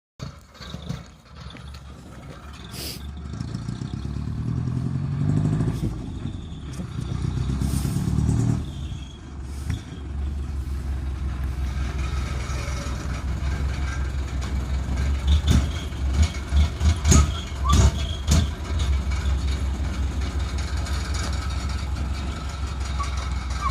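Decorated truck's engine through a manifold-split (maniwari) straight exhaust, revved up and down a few times, then settling into a steady low idle rumble. Past the middle come several short, sharp throttle blips.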